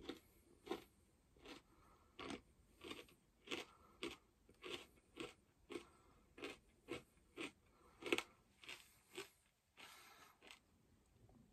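Crunchy pork scratchings being chewed with the mouth closed: a steady run of short, crisp crunches about two a second, faint overall, easing off briefly near the end.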